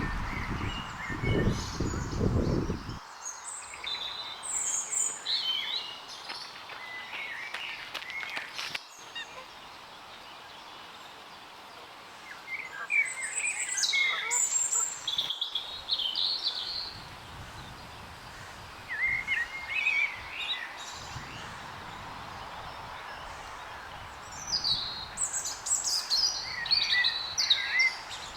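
Songbirds singing in short chirping phrases, on and off, over a steady outdoor background hiss.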